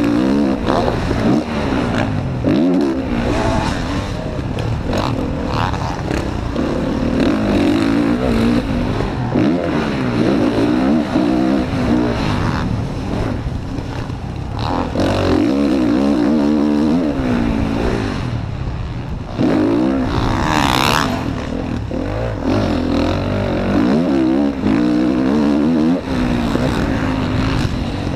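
Motocross dirt bike engine revving up and down hard as the rider accelerates, shifts and backs off around the track, heard from a camera mounted on the bike or rider. A brief, rising, high-pitched whine cuts in about two-thirds of the way through.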